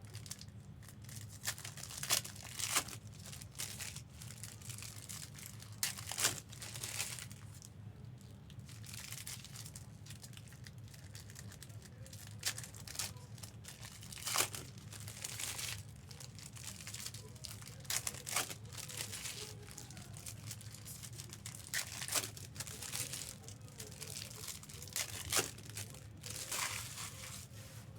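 Trading-card pack wrappers crinkling and tearing as packs are opened and the cards handled, in irregular crackly bursts over a steady low hum.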